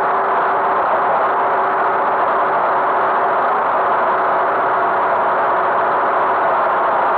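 Tractor engine running at a constant speed, a steady drone with a noisy rush over it and no change in pitch.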